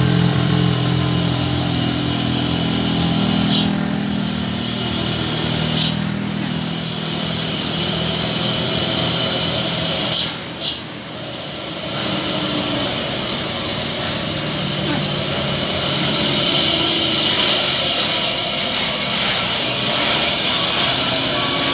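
Road traffic: vehicle engines running steadily under people's voices, with four short, sharp high-pitched bursts spread through the sound.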